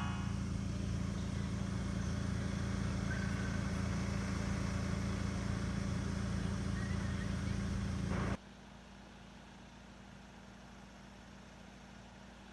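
Steady low rumble of a car, engine and road noise, which cuts off abruptly about eight seconds in and leaves only a faint steady hum.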